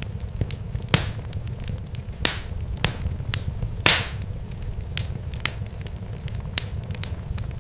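Irregular sharp crackles and pops, a few louder snaps among many small ticks, over a steady low rumble.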